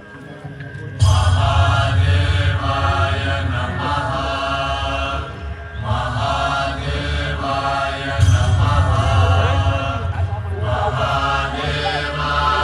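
Voices chanting a mantra over a deep, steady low drone. The chant comes in phrases, starting about a second in and again around six and eight seconds.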